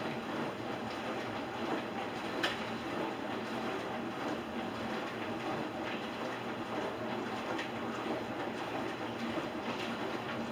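Steady rushing, rattling noise with a few light clinks of dishes being handled, the clearest about two and a half seconds in.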